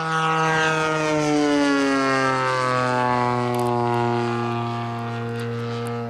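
DLE-55 rear-exhaust single-cylinder two-stroke gas engine of a giant-scale RC P-40 flying past, its pitch falling over the first two seconds or so as it goes by, then holding steady. The sound drops off sharply at the very end.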